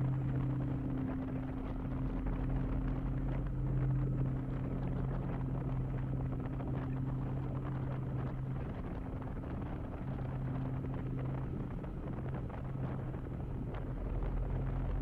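Kawasaki Vulcan motorcycle engine running at a steady cruise, with wind rushing over the helmet-mounted camera microphone.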